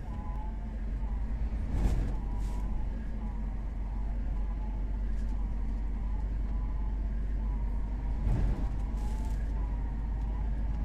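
Steady engine and road drone heard from inside a moving truck cab, driving in a blizzard with strong crosswind, with faint wavering tones on top. Two brief louder noises stand out, about two seconds in and again about eight seconds in.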